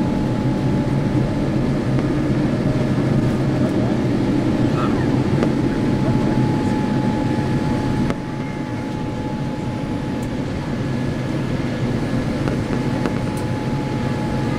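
Steady cabin noise of a Boeing 787-8 in the climb: a low rumble of engine and airflow with a steady whine over it. The level drops slightly a little past halfway.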